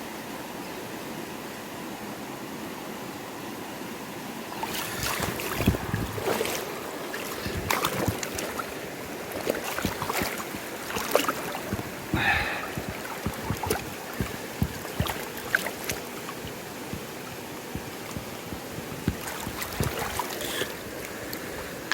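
Steady rush of a river swollen after heavy rain, with irregular knocks and clatters starting about five seconds in.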